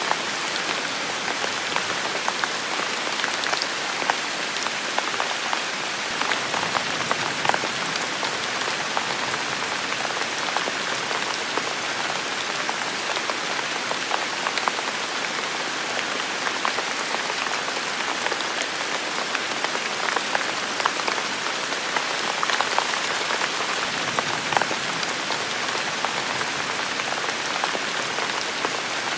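Steady heavy rain falling on a forest, an even hiss flecked with the patter of individual drops.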